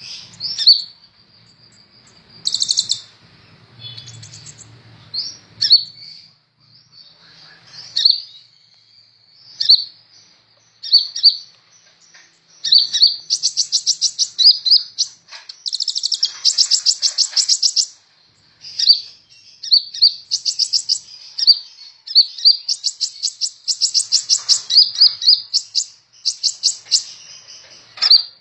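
Sunbird singing: high-pitched chirps and runs of rapid, evenly repeated notes, coming in phrases with short pauses between them.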